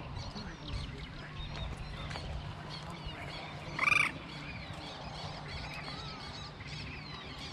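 Wild birds chirping and calling continuously over a steady low hum. About four seconds in, one loud, short call sounds out, louder than everything else.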